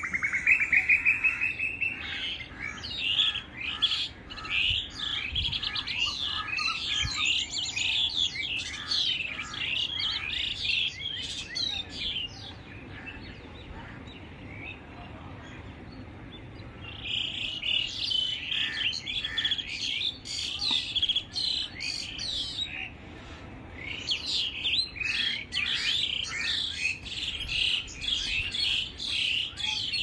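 Several small birds chirping and twittering together in quick, overlapping calls of morning birdsong. The chirping eases off for a few seconds about twelve seconds in, then picks up again.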